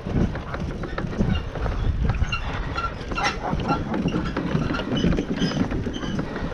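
Creaks and knocks from a suspension footbridge as a motorcycle is rolled across it by hand, the bridge swaying under the load.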